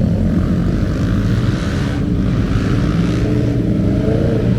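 Motorcycle engine running close by, its pitch rising and falling a little about three seconds in as it is revved or ridden off.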